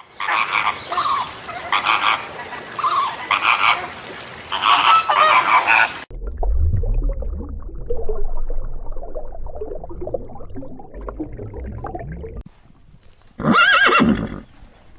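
Farm animal calls: about six seconds of dense, loud calling, then a low rumble, then a horse whinnies loudly once near the end.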